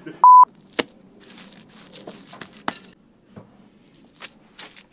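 A short, loud electronic beep at one steady pitch near the start, like a censor bleep. After it come scattered light clicks and scrapes of hands working wet clay mortar over the chimney bricks.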